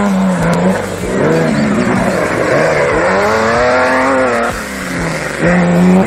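Off-road race vehicle engine running loud, its pitch climbing and falling back once in the middle, then steady again.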